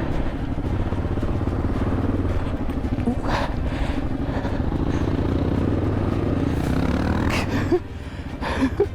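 Single-cylinder engine of a 1987 Yamaha XT600Z Ténéré motorcycle running at low speed in slippery mud, the revs rising about six seconds in and easing off near the end.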